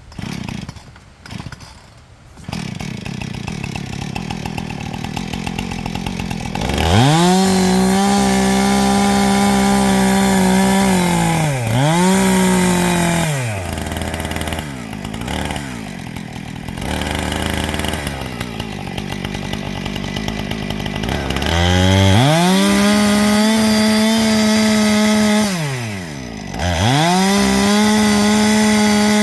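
Two-stroke chainsaw idling from about two seconds in, then run up to full throttle cutting into a pine trunk in long steady stretches. The engine drops back to idle between cuts, easing off briefly near the middle and again near the end.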